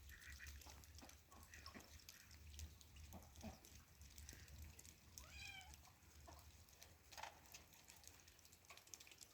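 A cat meowing once, faintly, a little past halfway, over scattered soft clicks and a low hum.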